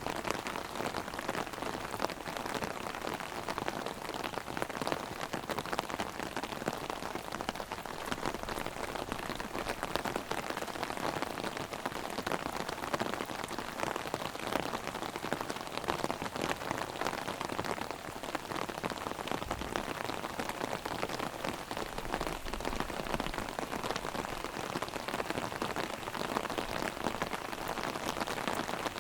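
Heavy rain hitting an umbrella overhead: a dense, steady patter of countless drops on the canopy, with no let-up.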